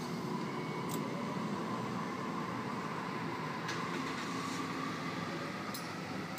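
Steady rumble and hum of a Sydney Trains Waratah electric train pulling out of the station, with a faint steady whine.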